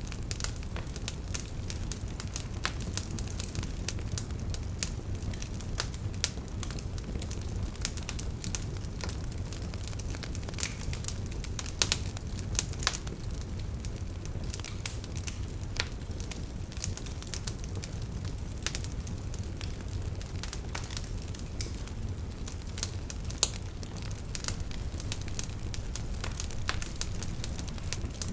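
Campfire of burning firewood crackling, with frequent sharp pops and snaps over a steady low rumble of the flames.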